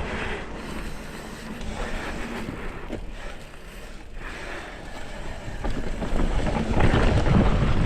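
Wind buffeting the microphone while riding a mountain bike along a trail, with a low rumble that grows louder near the end.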